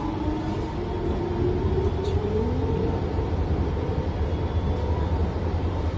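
Passenger train running with a steady low rumble, over which a thin whine rises slowly in pitch through the first few seconds.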